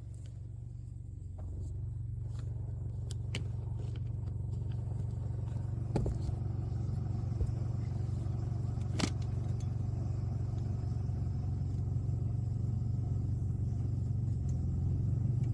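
Car engine running steadily at low revs, growing louder over the first few seconds, with a couple of sharp clicks midway.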